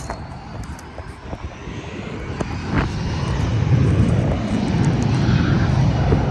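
Jet airliner coming in to land, passing low overhead: its engine roar swells to a peak about four seconds in, then begins to ease.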